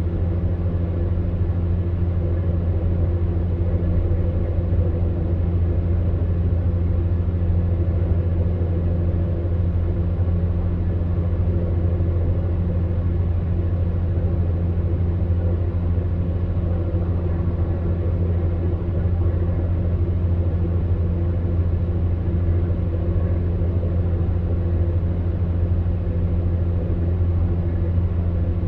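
Electric fan heater running: a steady, even hum and whir of its fan motor, with a strong low drone.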